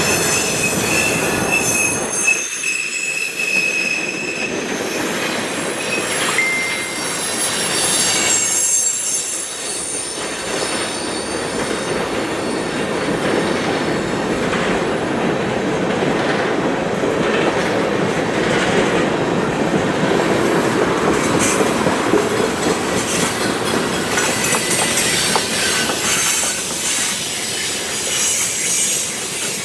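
Cars of a CSX manifest freight train rolling past with a steady rumble and clatter of wheels on rail, and high-pitched wheel flange squeals that come and go, strongest in the first few seconds.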